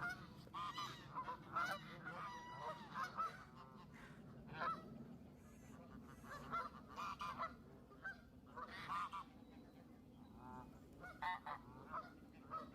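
A flock of geese honking, with a dozen or so short calls at irregular intervals, some overlapping.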